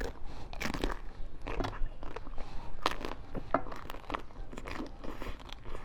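Ice being bitten and chewed close to the microphone: a quick, irregular run of sharp crunches and cracks, several a second.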